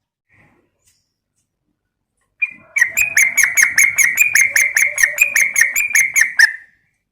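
Yellow-vented bulbul (trucukan) giving a rapid chattering call, about five or six sharp notes a second, starting about two and a half seconds in and stopping abruptly near the end.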